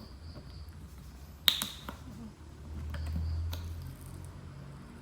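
One sharp clink with a short ring about one and a half seconds in, over a low rumble that swells briefly near the end.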